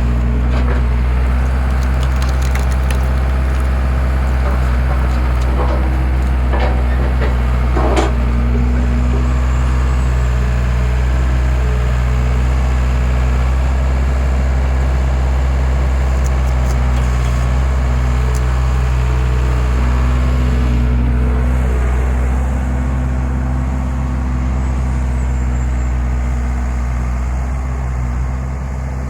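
Skid steer engine running steadily, powering a hydraulic log splitter. Wood cracks and snaps as it splits during the first eight seconds, with the loudest snap about eight seconds in. The engine note eases slightly about three-quarters of the way through.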